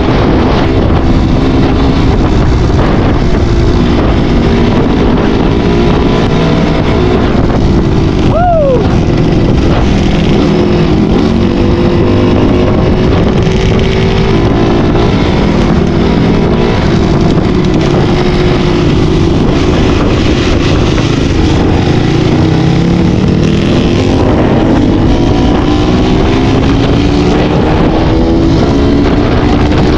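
Enduro motorcycle engine running hard on a trail, its revs rising and falling with the throttle, with one quick drop in pitch about eight seconds in.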